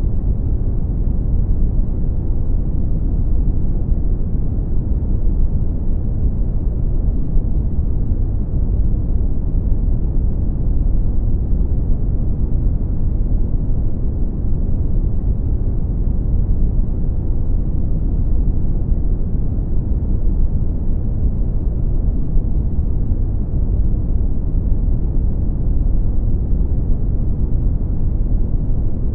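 Brown noise: a steady, deep rumbling hiss, heaviest in the bass and dull at the top, with no change throughout.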